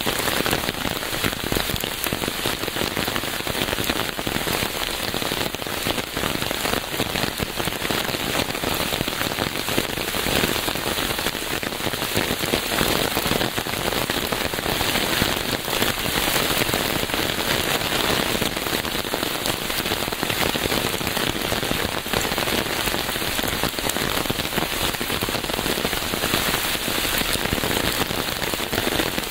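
Steady heavy rain falling on a surface, a dense even hiss full of fine pattering drops.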